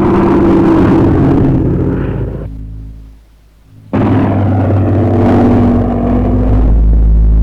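Aircraft engine noise from a display flypast: a loud, steady rumble with several steady tones above it. It fades away about two to three seconds in, then cuts back in suddenly at full level about four seconds in.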